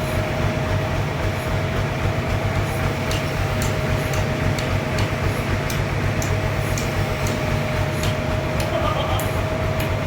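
Sawmill machinery running steadily: a constant low hum with a steady whine held throughout and scattered sharp ticks.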